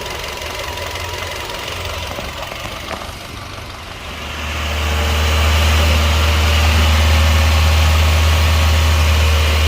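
Nissan Versa engine idling while its oil system is flushed; the car has a misfire on cylinder 4. About four seconds in, a louder steady low hum comes in and holds.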